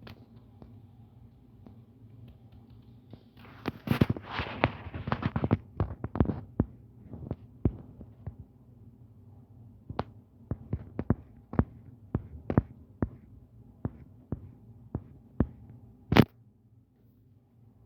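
Irregular sharp clicks and taps over a low steady hum: a dense flurry about four seconds in, then single clicks roughly every half second, the loudest one near the end.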